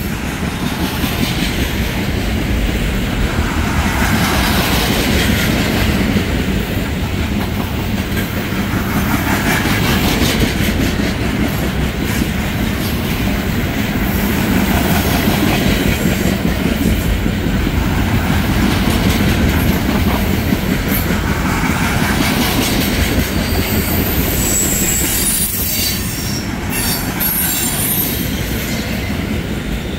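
Freight train of trash container cars rolling past: a steady rumble of steel wheels on rail with rhythmic clickety-clack, and some high wheel squeal toward the end.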